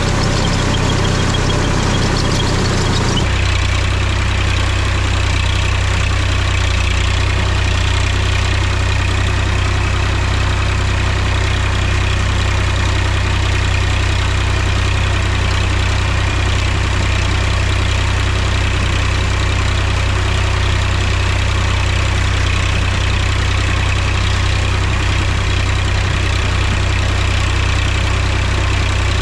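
Mahindra tractor's diesel engine running steadily, with its note changing abruptly about three seconds in.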